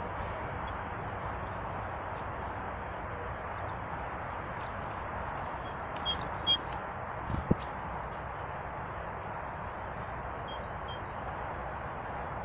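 Small birds chirping and twittering over a steady rushing noise, with a burst of louder chirps about six seconds in and a single knock just after.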